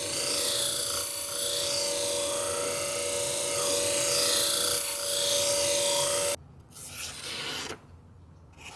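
Knife blade being stropped on a spinning leather wheel of a motorized sharpening machine, the final polishing stage after the grit wheels: steady motor hum with the rasp of the edge rubbing on the wheel. The machine sound cuts off abruptly about six seconds in, followed by a brief, softer rubbing.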